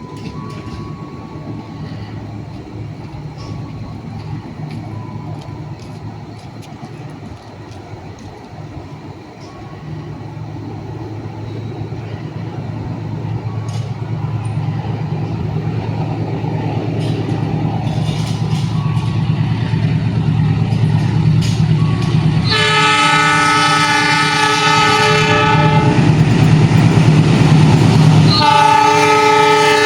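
Diesel locomotive approaching, its engine drone growing steadily louder, then two long blasts of its multi-tone horn, the first lasting about three seconds and the second starting just before the end.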